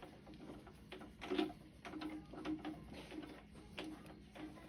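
Light, irregular metallic clicks and taps, about two a second, as tools and parts are handled on an engine under teardown.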